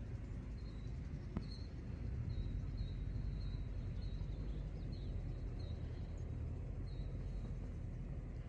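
A small bird chirping, short high chirps repeated irregularly about every half second, over a steady low outdoor rumble.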